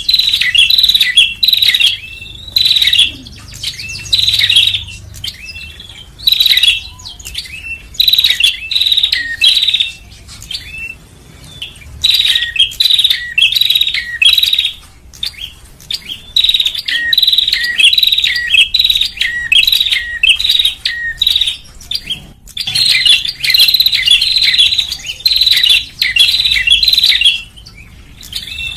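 Prinia (prenjak) song played as a bird-trapping lure call: loud, quick phrases of sharp, high chirps repeated over and over, broken by short pauses.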